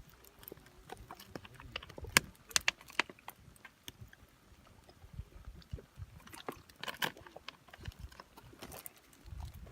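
Wood fire crackling, with irregular sharp pops and clicks.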